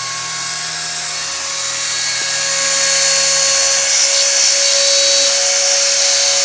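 Homemade CNC router's spindle running at a high, steady pitch while it mills a part under G-code control, with the axis motors whining along; it grows louder about two to three seconds in.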